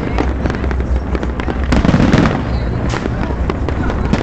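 Fireworks display: rapid bangs and crackling shell bursts, one after another, over a continuous low rumble, with thicker clusters of explosions near the start and about halfway through.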